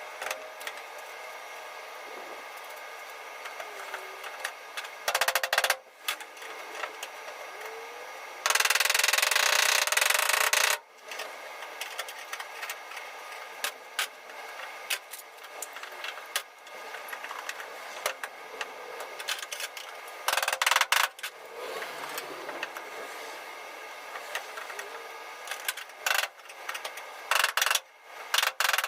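Bursts of power-tool noise over a steady background hiss: a long burst about nine seconds in, shorter ones around five and twenty seconds, and a quick run of short bursts near the end.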